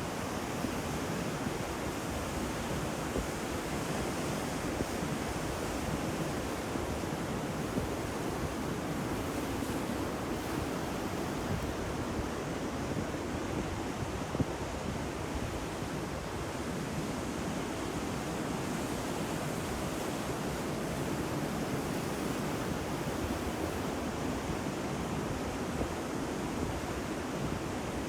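Ocean surf: a steady, continuous wash of breaking waves, with no single crash standing out.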